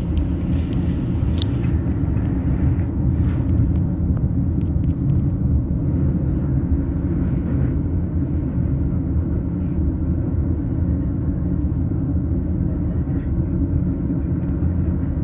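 Interior running noise of an E233-series electric commuter train heard from inside its bilevel Green Car: a steady low rumble of wheels on rail and car body while the train runs between stations, with a few faint ticks.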